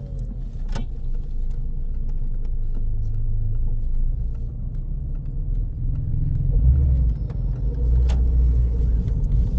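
A car running, with a steady low rumble of engine and road noise that grows louder after about six seconds. There is a sharp click about a second in and another near the end.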